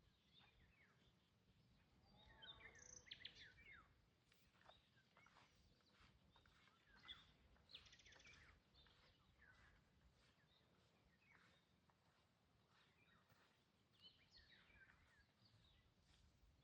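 Small birds chirping and calling, faintly, over a low background rumble, with a busier burst of calls about two to four seconds in.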